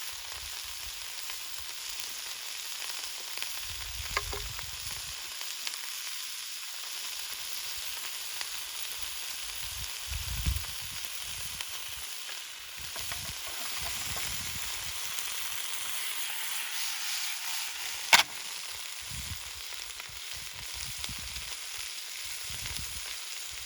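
Food sizzling in a pot over a wood fire, a steady frying hiss with a few soft knocks from stirring and one sharp clack about eighteen seconds in.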